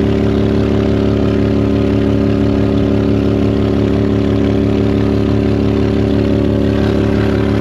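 Boat motor running steadily at trolling speed, one even pitch with no change in throttle.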